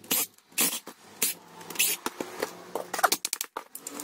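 Irregular clicks, knocks and short scrapes of the partly disassembled angle grinder's parts being handled and moved on a workbench.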